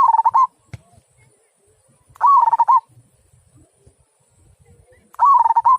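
Zebra dove (perkutut) cooing: three short, rapid trilled coo phrases about two to three seconds apart, the first at the very start and the last cut off at the end.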